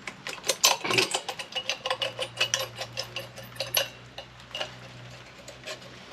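Rapid metallic clicks and taps of hand tools working aluminum pieces loose from a microwave's magnetron, thick and fast for the first few seconds and then sparser. A low steady hum runs under the middle of it.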